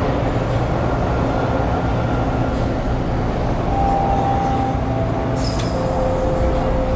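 Subway train running between stations, heard from inside the car: a steady rumble of wheels on rails. Faint steady whine tones come in about four seconds in, with a brief high-pitched burst about a second later.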